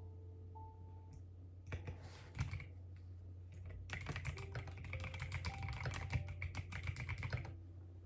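Typing on a computer keyboard: a few keystrokes about two seconds in, then a fast, continuous run of key clicks from about four seconds until shortly before the end.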